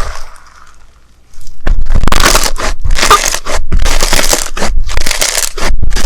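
Slime being squeezed and pressed by hand, making a dense, choppy crackling and crunching noise that starts about a second and a half in.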